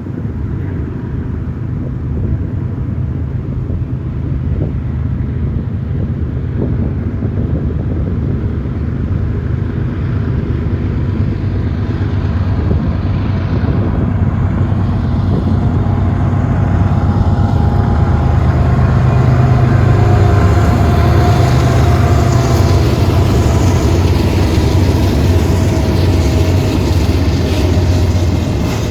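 Freight train with diesel locomotives rumbling past, a steady low engine drone that builds to its loudest about twenty seconds in, with rolling wheel noise growing in the second half.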